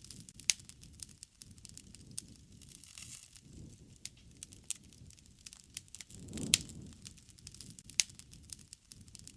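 Wood fire burning: a steady crackle of small snaps over a low rush of flame, with a few louder pops, the loudest about six and a half seconds in along with a brief swell of the flame's rush.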